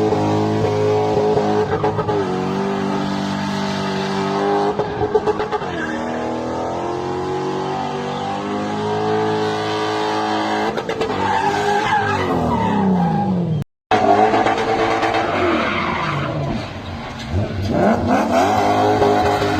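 V8 engine in a BMW 325i running hard, its pitch rising and falling as it is revved, with a brief cut in the sound about two-thirds of the way through.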